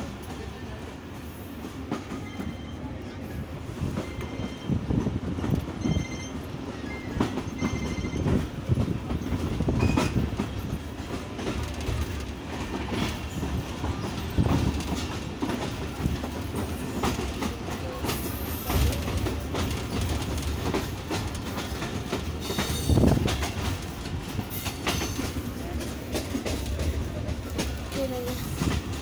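Passenger train coaches rolling along, heard from an open carriage doorway: a steady rumble with wheels clacking irregularly over rail joints.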